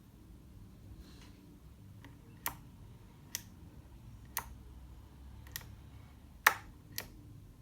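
Sharp clicks from handling the controls of a FrSky Taranis X9D Plus radio transmitter, six of them, irregularly spaced, the loudest near the end. The radio gives no voice announcement, the fault in which it stops talking and reads out no telemetry.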